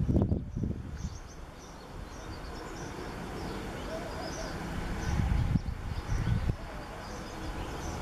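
Faint, scattered high bird chirps over a low, irregular rumble that swells near the start and again past the middle.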